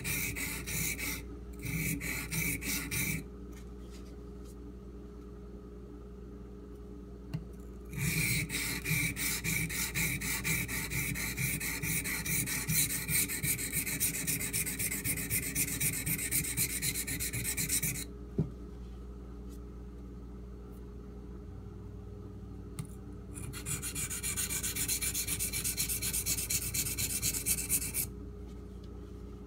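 Steel knife blade stroked back and forth across a Shapton Pro whetstone with light pressure: rapid rhythmic scraping strokes in three runs, a short one at the start, a long one through the middle and another near the end, with pauses between.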